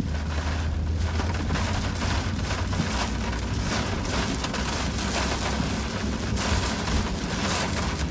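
Heavy hurricane rain pelting the windshield and roof of a moving car, heard from inside the cabin as a dense, uneven spatter over a steady low rumble of road and wind noise.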